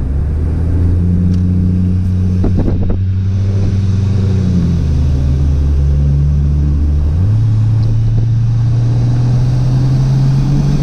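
Turbocharged Barra inline-six of a Ford Falcon FG running at steady cruising revs, with a brief burst of noise about two and a half seconds in. The engine note shifts to a different pitch about seven seconds in.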